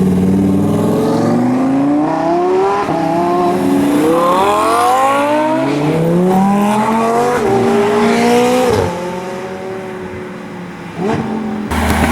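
A car engine accelerating hard, its pitch climbing and dropping back through several gear changes, then fading away. Near the end another engine is heard idling close by.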